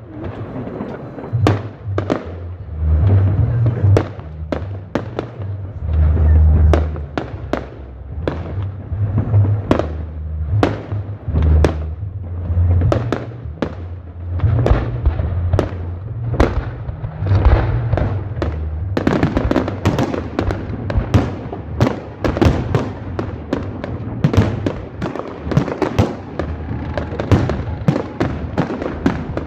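Fireworks and firecrackers going off: a continuous run of sharp bangs and cracks over deep booms, the bangs coming thicker and faster about two-thirds of the way through.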